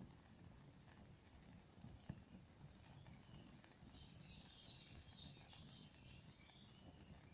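A wood campfire crackling softly with small irregular pops, one sharper snap about two seconds in. A bird calls for a couple of seconds past the middle.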